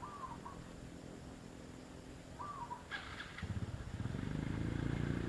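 Zebra dove giving two short cooing calls, one at the start and one about two and a half seconds in. From about three and a half seconds a louder low rumble, like a motor vehicle running, rises and takes over.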